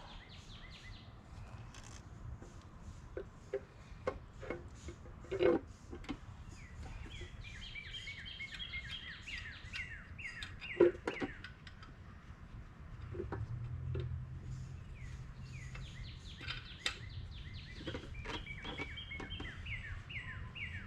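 A bird singing runs of quick, repeated downward-sliding notes, with a few sharp knocks and clicks between them. A low hum comes in briefly around the middle.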